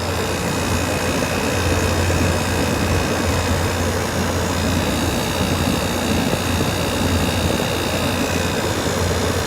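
A 1986 Quietmaster air conditioner running steadily on medium cool, heard close up: an even rush of fan air over the low hum of its rotary compressor.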